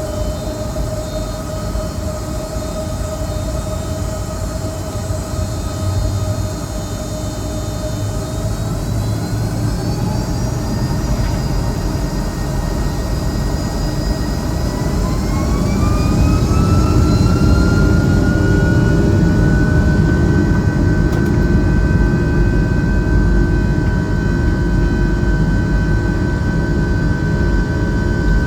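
Rolls-Royce RB211-535E4B turbofans of a Boeing 757-200, heard from inside the cabin, spooling up to takeoff power. The engine whine rises in pitch from about a third of the way in and levels off a little past halfway into a steady high tone, while the low rumble grows louder.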